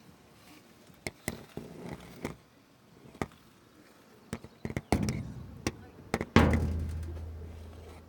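Scattered light taps and clicks, then a loud knock a little over six seconds in followed by a low ring that slowly fades.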